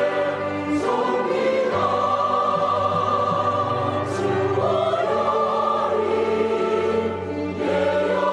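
Church choir singing a sacred anthem in Korean: full sustained chords, the voices moving to a new word and chord roughly every three to four seconds.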